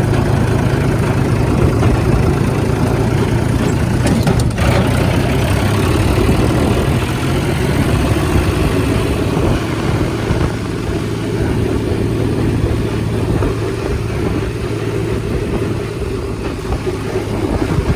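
Tractor engine running steadily at a constant speed, with a short knock about four seconds in.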